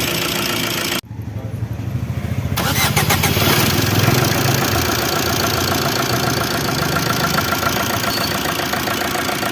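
Overhauled Maruti Suzuki Swift Dzire diesel engine running. About a second in the sound breaks off sharply, then the engine comes back, builds up over a couple of seconds and runs steadily.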